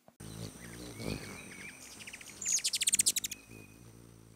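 Birds chirping over a faint steady hum. There are short chirps first, then a fast trill of about a dozen sharp notes about two and a half seconds in.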